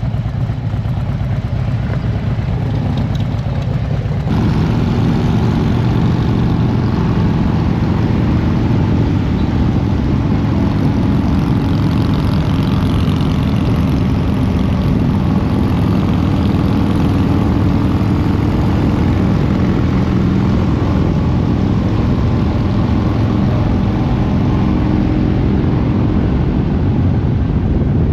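Harley-Davidson V-twin motorcycle engine running steadily, getting louder about four seconds in.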